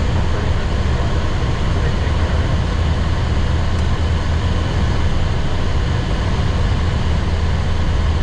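Steady flight-deck noise of a Boeing 737-800 climbing after takeoff: an even rush of airflow and air-conditioning noise over a constant low hum.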